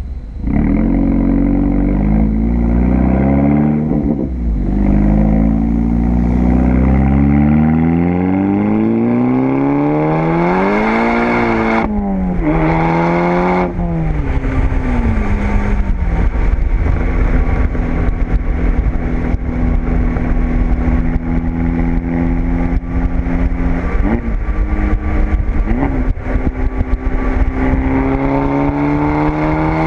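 Volkswagen GTI's turbocharged four-cylinder engine, fitted with an APR K04 turbo and APR turboback exhaust, under acceleration: a deep rumble, then the revs climb, drop sharply at a gear change and climb again. It then runs at a steady speed with a couple of short blips, and rises and falls again near the end.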